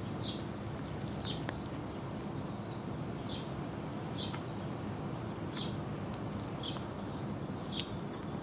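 A small bird chirping, short high chirps repeating about once a second over a steady low hum.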